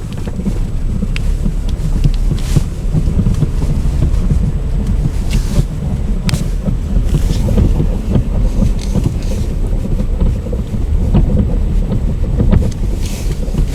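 VW Passat B5 driving over a rough road, its front suspension giving repeated dull, rubbery knocks at irregular moments over the low rumble of the car. The knock comes from the strut top mounts striking the upper cups where the upper control arms attach; the owner suspects the new mounts are the wrong ones.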